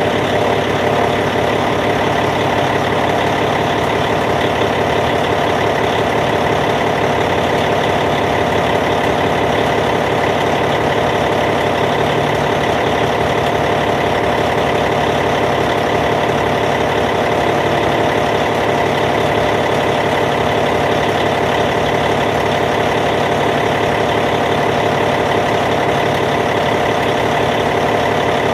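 Caterpillar C15 diesel engine in a D8T bulldozer idling steadily, with an even, unchanging rumble.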